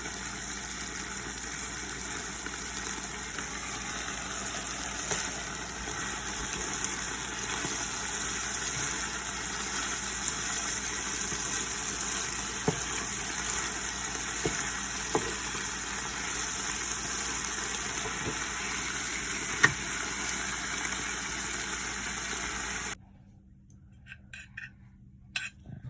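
Steady sizzling of a holy-basil stir-fry (pad kra pao) frying in a pan, with a few sharp clicks, until it cuts off suddenly about 23 seconds in.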